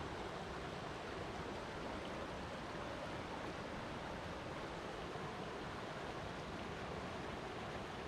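Flowing water rushing steadily, an even noise without breaks or changes.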